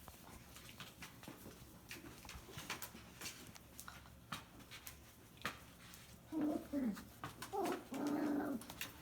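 Puppies playing: scattered clicks and scuffles for the first several seconds, then from about six seconds in a run of loud puppy whines and yips with sliding pitch.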